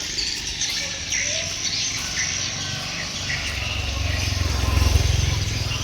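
Swiftlets chirping with scattered short, high calls around a swiftlet nest-farming building. A low rumble swells in the second half.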